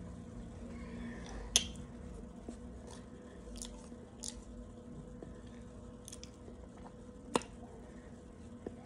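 Dry cornstarch being chewed, with a plastic spoon scooping through powder in a plastic tub. A scatter of sharp clicks runs through it; the two loudest come about a second and a half in and near the end.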